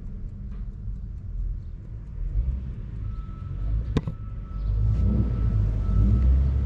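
A car engine running with a low rumble, growing louder about two-thirds of the way through, with one sharp click about halfway.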